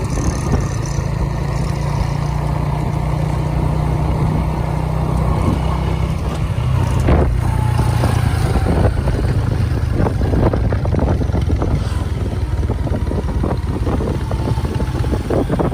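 Restored Honda Super Cub's small air-cooled four-stroke single-cylinder engine running steadily. Its note shifts about six seconds in, and light clicks and knocks follow.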